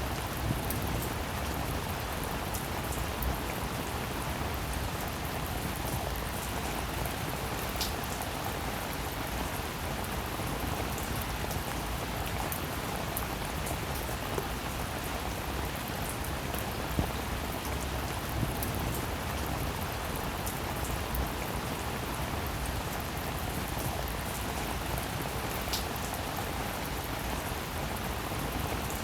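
Steady, dense rainfall with individual drops ticking sharply now and then above the even patter.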